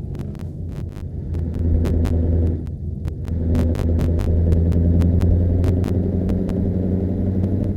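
Scania V8 diesel truck engine running with a deep exhaust rumble, swelling louder twice as it is given throttle.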